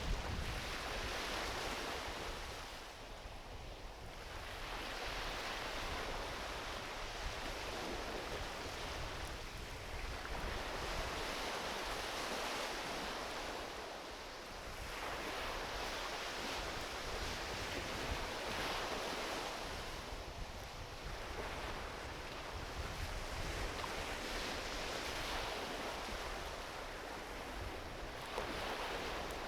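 Small ocean waves washing onto a beach, the surf noise swelling and easing about every five to six seconds, with a low wind rumble on the microphone.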